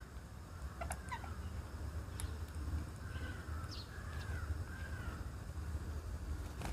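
Birds calling outdoors: a few short sharp chirps, and around the middle a run of three or four arched calls, over a steady low rumble.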